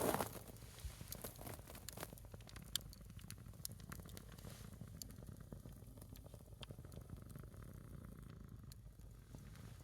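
A small wood fire burning a single log, crackling with scattered sharp pops, over a low steady rumble. A brief rustling burst comes right at the start.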